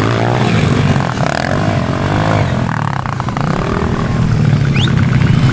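Several motorcycle engines revving up and down, rising and falling in pitch and overlapping one another.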